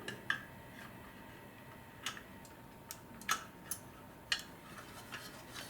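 Irregular light clicks and taps of the plastic trigger assembly and its wires being handled and fitted into a Dyson V10 vacuum's handle, about half a dozen in all.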